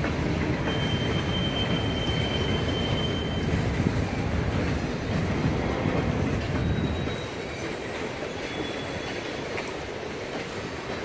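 Freight train of boxcars and covered hoppers rolling past, steel wheels rumbling on the rails, with thin high-pitched wheel squeals coming and going. The rumble eases a little about seven seconds in.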